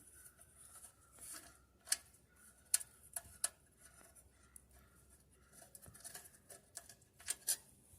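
Scattered sharp clicks and light metallic taps of hand tools and small engine parts being handled while parts are taken off a small engine, a few louder clicks about two, three and seven seconds in.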